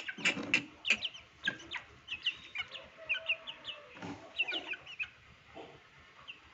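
Parrot chicks calling: a stream of short, high chirps, several a second, with a few louder, harsher calls in the first second.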